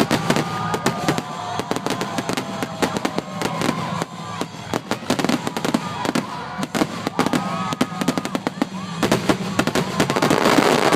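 Fireworks going off in quick succession: many sharp bangs and crackles, with whistling glides, thickening into a dense run of crackling about nine seconds in.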